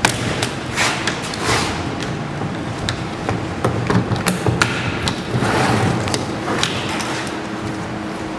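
A string of irregular knocks and thumps over a steady background noise.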